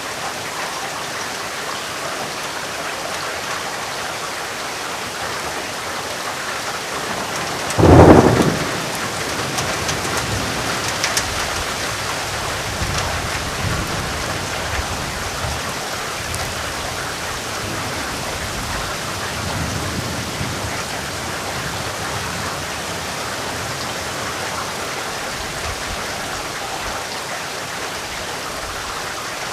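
Thunderstorm: steady heavy rain, with a sudden loud thunderclap about eight seconds in, followed by a low rumble of thunder that fades away over the next ten seconds or so.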